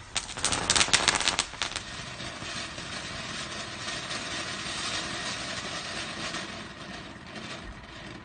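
Fireworks crackling: a quick run of sharp cracks in the first two seconds, then a steady rushing hiss.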